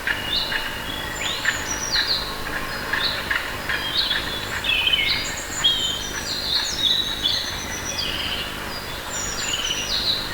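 Birds chirping and calling: many short, high-pitched chirps and quick downward-sliding notes overlapping one another, over a steady background hiss.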